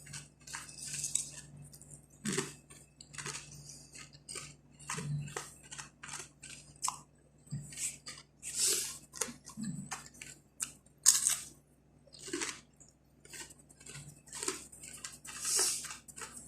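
Close-up chewing and crunching of crisp kuboos (Arabic flatbread) pieces: irregular crackly crunches, some louder bites among quieter chews.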